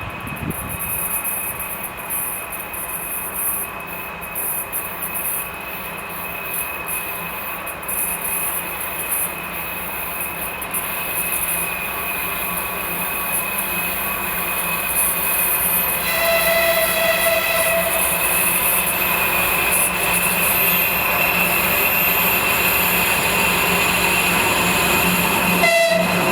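2TE116 twin-section diesel locomotive pulling a train, its engine notching up with the high turbocharger whistle that earns the class its nickname 'Boeing', growing steadily louder. About two-thirds of the way through its horn sounds for about two seconds, and a short horn blast comes just before the end.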